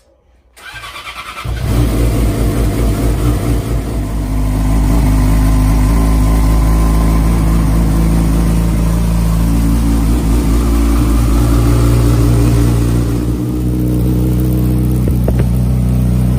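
Motorcycle engine starting up about a second in, then running steadily at idle.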